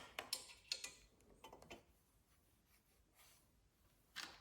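A few faint metallic clicks and taps from a set of Allen keys being handled, in several quick ticks over the first couple of seconds, then near silence, then one more click near the end.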